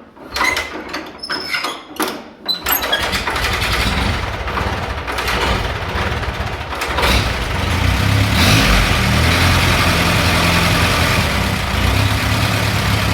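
1938 Allis Chalmers Model B tractor's four-cylinder engine being started: a few uneven strokes as it turns over, then it catches about two and a half seconds in and runs steadily, growing louder from about eight seconds in.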